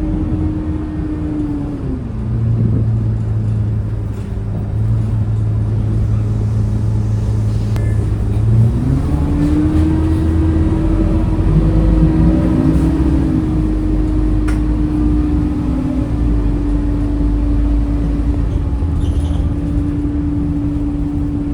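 Scania K230UB city bus's five-cylinder diesel engine running. Its note drops about two seconds in and holds low, then climbs again about nine seconds in and stays steady under load.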